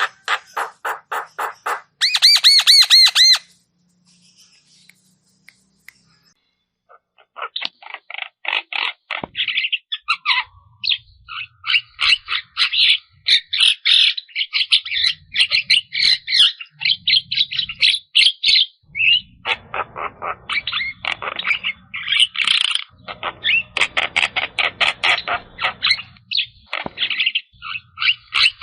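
Javan myna (jalak kebo) singing. It gives a run of rapid notes and a clear whistled call, falls silent for a few seconds, then breaks into a long stretch of fast, busy chattering.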